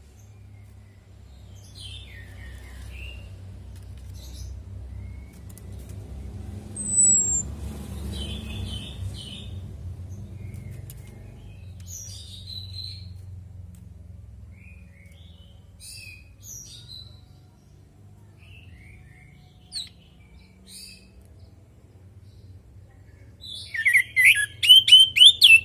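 Orange-headed thrush calling: scattered short, high notes, then a loud rapid run of sharp notes near the end. A steady low hum runs underneath.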